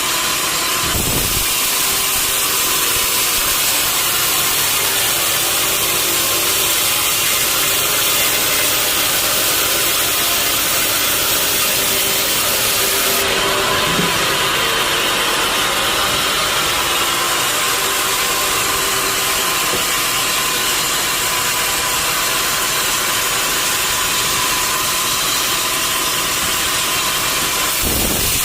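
Sawmill machinery running: a steady, loud mechanical noise with an engine hum underneath.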